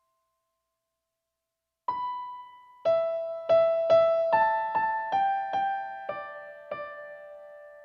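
Keyboard music with an electric-piano sound: after about two seconds of silence, one struck note, then a slow run of notes about every half second, stepping downward in pitch, each ringing and fading.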